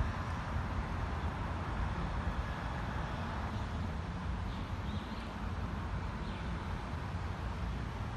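Steady outdoor city street noise, mostly a low rumble of traffic.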